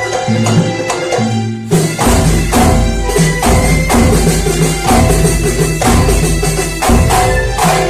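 Kuntulan folk music played live: frame drums and other hand percussion beating a steady rhythm under a melodic line. A heavy low drum beat joins about two seconds in.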